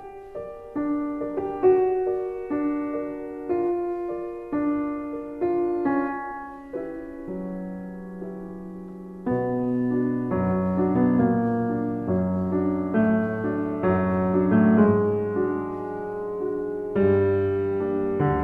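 Solo piano music: a slow melody of single held notes, joined by deeper bass notes about halfway through.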